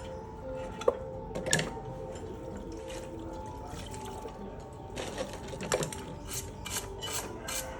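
Hand tools clinking and tapping on metal engine parts: a few scattered sharp knocks, then a quick run of ticks about three a second near the end, over a faint steady hum.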